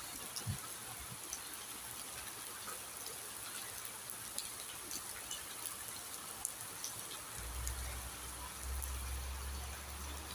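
Steady rain falling, with many single drops ticking. A low rumble joins about seven seconds in.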